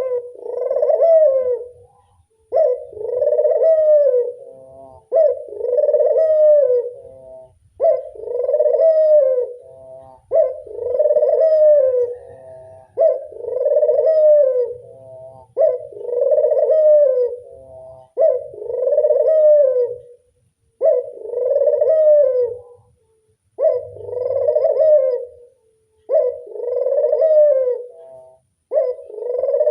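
A burung puter (Barbary or ringneck dove) cooing over and over, a rolling coo of about two seconds repeated every two and a half seconds or so.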